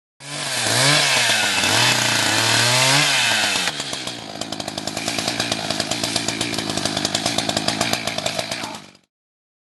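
Echo two-stroke chainsaw at high revs, its pitch dipping and recovering as the chain bites into hard eucalyptus wood. About four seconds in it settles to a lower, evenly pulsing run, then cuts off suddenly near the end.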